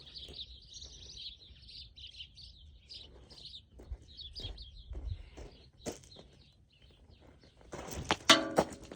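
Small birds chirping over and over in the background. Near the end comes a loud, sharp crack with a brief ring: a clay bird figurine shattering into small pieces.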